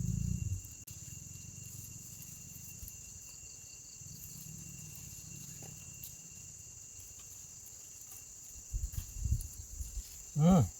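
Steady high-pitched insect chirring, like crickets, in the background. A few soft low thuds come late, and a short wavering voiced sound from the eater comes just before the end.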